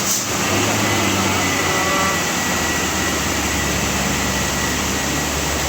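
Heavy truck's diesel engine running under load, a low steady hum, over the steady hiss of heavy rain.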